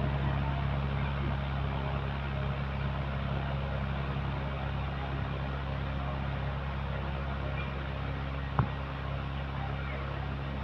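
A steady mechanical hum with a low throb about twice a second, and a single sharp click near the end.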